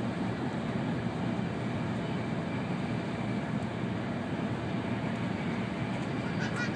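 N700-series Shinkansen train running at speed, heard from inside the passenger cabin: a steady, even rumble.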